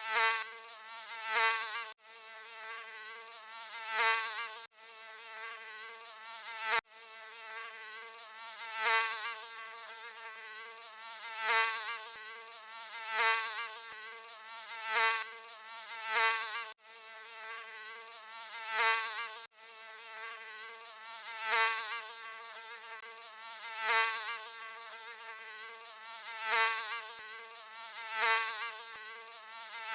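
Mosquito buzzing: a wavering, pitched whine with many overtones that swells loud every two seconds or so, as if passing close by. There are a few abrupt cuts where the recording is looped.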